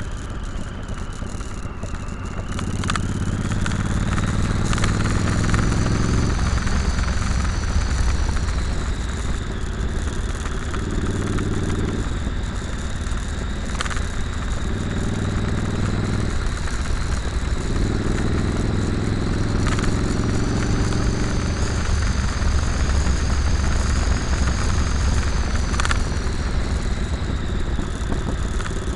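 Motorcycle engine running under way, rising in pitch several times as it accelerates and dropping back at each break, which fits shifting through the gears, over steady wind and road noise.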